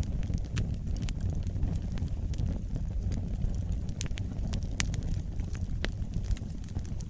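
Wood fire burning in a fireplace: a steady low rumble of flames with irregular crackles and sharp pops, a few louder snaps a little past the middle.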